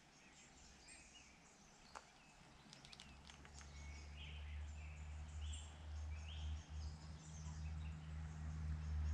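Small birds chirping in a few short calls around the middle, over a low rumble that builds from about three seconds in. There is a single sharp click about two seconds in.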